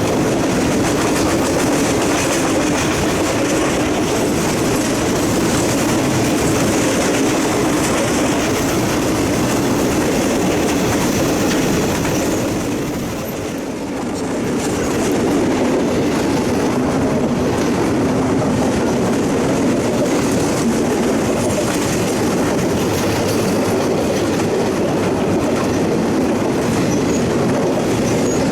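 Freight train cars rolling past, their wheels clattering over the rail joints in a steady loud rumble that dips briefly about halfway through.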